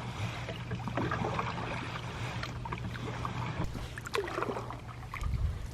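Paddle strokes from an aluminum Grumman canoe, the blade dipping and pulling through calm water with trickling drips, over a steady low hum.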